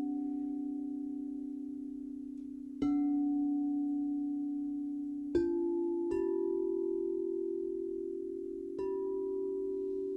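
Crystal singing bowls struck one after another, four strikes at different pitches, each ringing on and overlapping the last with a slow wavering pulse in the tone.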